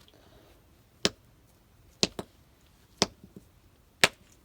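Hammer striking a geode to crack it open: sharp blows about once a second, some followed by a lighter second tap.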